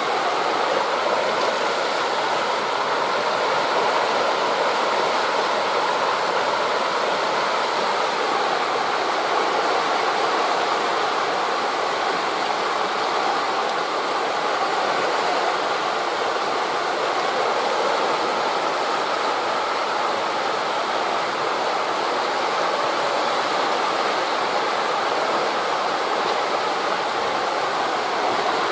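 Steady rushing noise of wind in the trees and surf on the shore, even and unbroken, with no single wave standing out.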